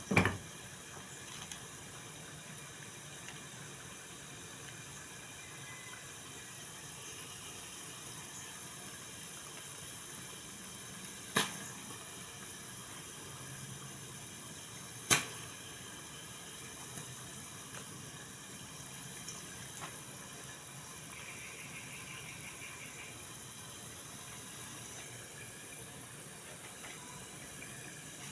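A steady, even hiss, broken by three short sharp clicks or knocks: one at the very start, one about eleven seconds in and one about fifteen seconds in.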